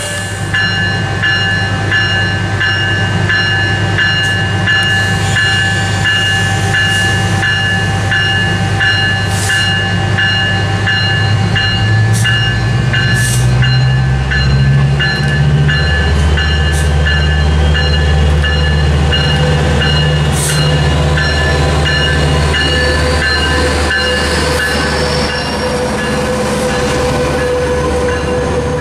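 Metrolink commuter train pulling in: the diesel locomotive's engine drones, rising in pitch about halfway through, while its bell rings steadily, about two strokes a second. Then the bi-level passenger cars roll past.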